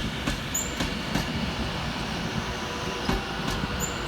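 Train noise at a station platform: a steady low rumble with a few scattered sharp clicks and two short, high squeaks, one about half a second in and one near the end.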